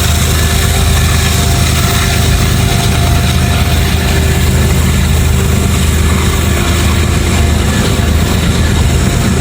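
Diesel freight locomotives passing close by, their engines running with a loud, steady low drone.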